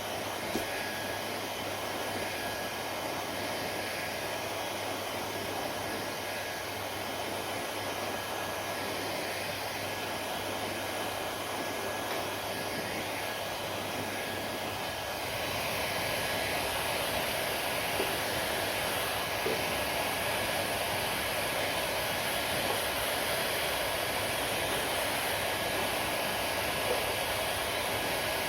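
Hair dryer running steadily: an even rush of blowing air with a thin steady whine, getting a little louder about halfway through.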